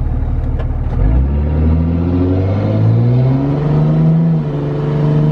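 Cummins inline-six turbo-diesel in a Dodge dually truck running low, then revving up steadily from about a second in and holding at high revs, a burnout attempt under load.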